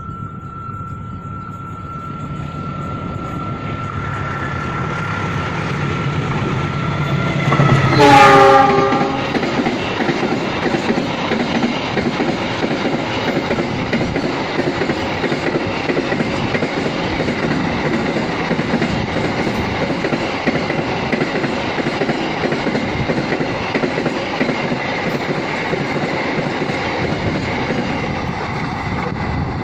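Freight train approaching with a rising rumble under a steady high tone, then the locomotive's horn sounds once, loudest, for about a second, about eight seconds in. The wagons then run past with a steady noise of wheels on rails.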